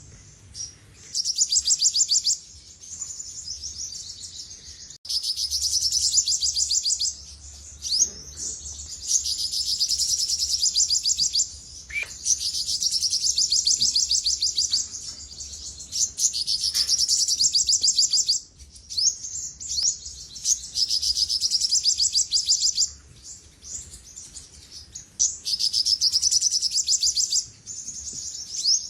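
Olive-backed sunbird singing: long, high-pitched phrases of rapid trilling, each several seconds long, separated by brief pauses.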